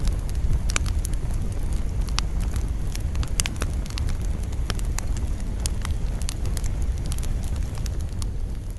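Wood campfire crackling and popping in many sharp snaps over a steady low rumble of wind, fading out near the end.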